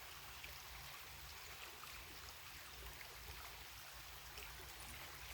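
Faint, steady babbling of a small creek.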